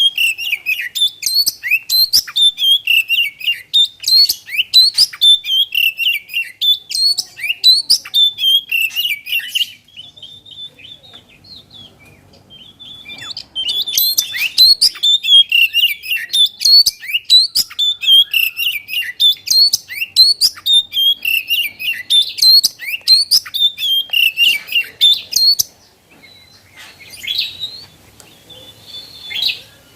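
Oriental magpie-robin (kacer) singing vigorously: fast strings of short, sharp whistled notes. The song thins to a few faint notes about ten seconds in, comes back loud a few seconds later, and thins again near the end.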